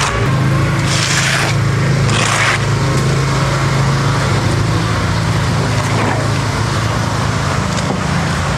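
Machinery engine running steadily, with two short bursts of hissing or scraping noise about one and two seconds in.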